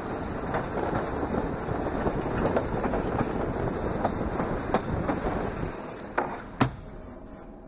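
Running noise of a moving EN57 electric multiple unit heard at its open window: a steady rumble of the wheels on the rails and rushing air, with scattered clicks. About six seconds in the noise eases off, and two sharp knocks follow close together.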